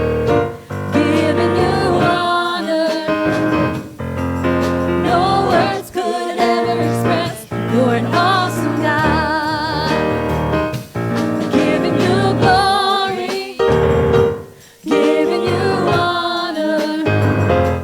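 Gospel worship song: singers with vibrato over piano or keyboard chords and bass.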